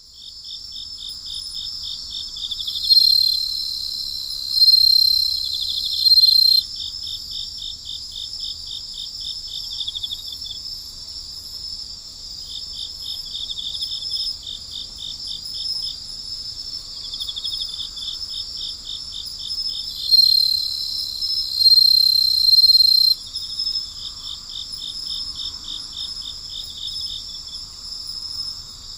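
Night chorus of insects: a steady high shrill drone with runs of rapid pulsing chirps, several a second, each run lasting a few seconds. Twice, a louder, nearer insect joins with a steady piercing trill for about three to four seconds.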